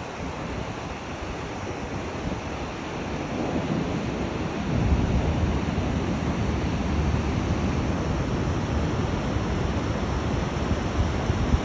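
Rough sea surf washing on a beach, with wind buffeting the microphone; the low rumble swells louder about five seconds in.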